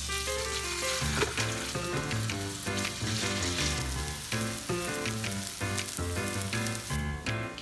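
Cauliflower patties sizzling as they fry in oil in a stainless steel skillet, with background music playing over it; the sizzle dies away near the end.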